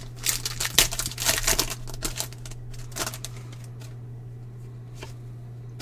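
Baseball trading cards being handled and flipped through: a quick run of light flicks, clicks and rustles for about three seconds, then only a few more.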